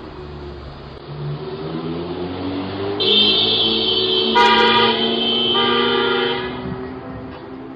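Modified cars accelerating hard past, engine pitch rising. About three seconds in, a loud car horn sounds in a long blast of roughly three seconds, with a second lower horn tone joining partway through.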